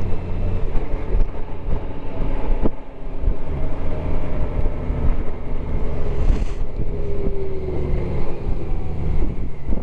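Motorcycle engine running while under way, heard from the rider's position with wind noise on the microphone; its pitch drops gradually in the second half.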